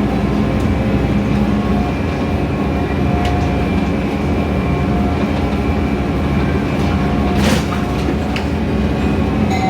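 Scania K320iA CNG city bus under way, heard from inside the cabin: a steady engine and road rumble with a few thin steady whining tones. A few short clicks and rattles sound over it, the loudest about seven and a half seconds in.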